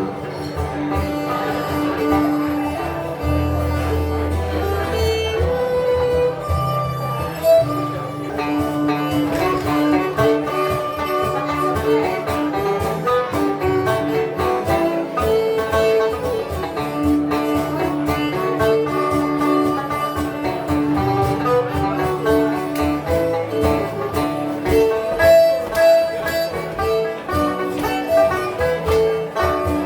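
Acoustic folk band playing an instrumental passage on 12-string guitar and banjo, no singing: a melody of held notes over steady strummed accompaniment.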